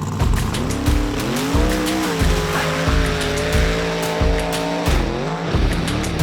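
A mega truck's engine revving up and holding high revs, then dropping back near the end, over music with a steady heavy beat.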